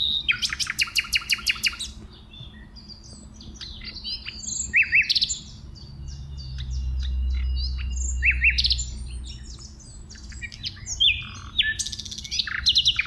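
Songbirds chirping and calling: a rapid rattling series of chips in the first two seconds, then scattered short chirps and quick downward-sweeping calls.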